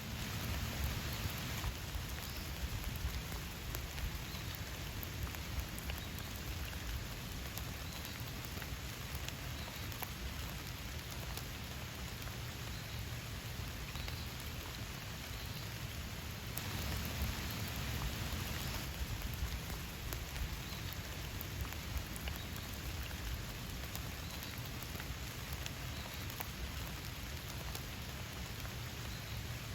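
Steady rain falling, with many separate drop hits heard through the hiss of the downpour. It gets a little heavier for a couple of seconds at the start and again just past halfway.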